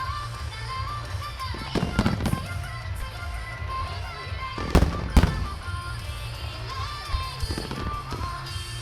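Firework shells bursting overhead: a cluster of bangs about two seconds in, then two loud bangs about five seconds in. Music with a moving melody plays under them throughout.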